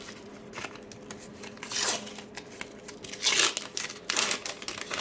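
A paper sticker pack being torn open and its wrapper crinkled, in three rustling bursts about two, three and four seconds in.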